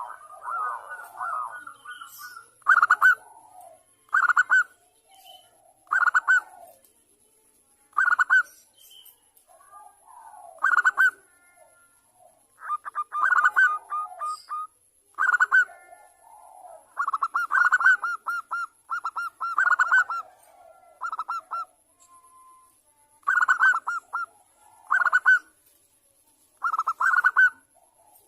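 Zebra dove (perkutut) cooing: bursts of rapid staccato coo notes repeat every one and a half to two seconds, with softer, lower calls between them. The recording is presented as a female calling to males, played as a lure call.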